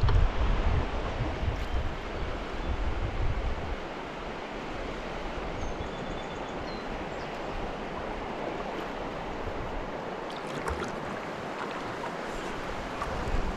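River water rushing over shallow riffles, a steady even hiss. Wind rumbles on the microphone for about the first four seconds, then drops away.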